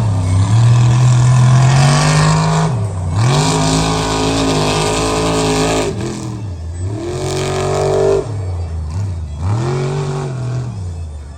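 Mega truck engine running at high revs through mud, the pitch dropping sharply and climbing back about three times, then fading near the end.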